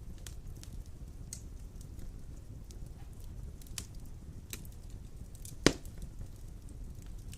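Wood fire of large logs burning in a fireplace: a low rumble with scattered sharp crackles, and one loud pop about five and a half seconds in.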